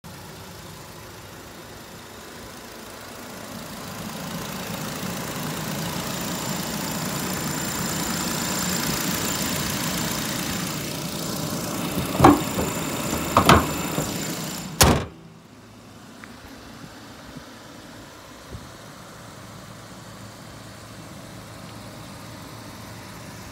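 Nissan Tiida's engine idling under the open bonnet, a steady sound with a thin high whine, growing louder as the microphone nears the engine bay. The bonnet is then lowered with two knocks and slammed shut about two-thirds of the way through; the slam is the loudest sound, and afterwards the engine is much quieter.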